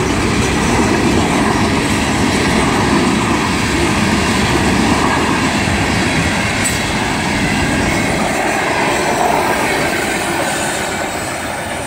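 A freight train's cars rolling past close by: a steady rumble and clatter of steel wheels on the rails, easing off slightly near the end.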